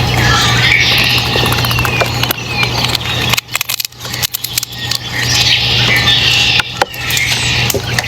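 Small wild birds calling, with short descending chirps repeating through the sound, over a steady low hum and scattered sharp clicks.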